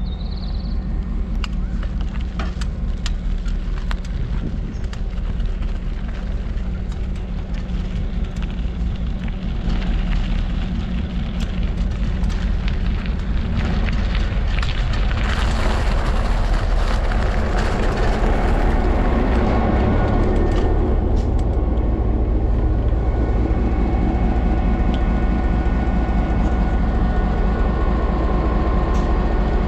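Skunk Train running past: a steady low rumble with scattered clacks in the first several seconds, a loud hiss from about fifteen to nineteen seconds in, then steady whining tones over the rumble.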